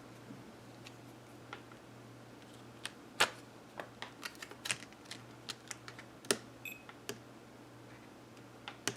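Scattered light clicks and taps, about a dozen at irregular spacing, from small hard parts being handled, over a faint steady hum.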